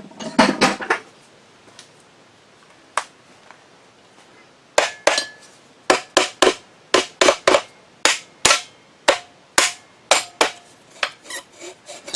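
Plastic hammer striking the drill grinder's electric motor to tap it apart. A cluster of blows comes at the start and a single one about three seconds in, then a steady run of about two strikes a second from about five seconds in, getting lighter near the end.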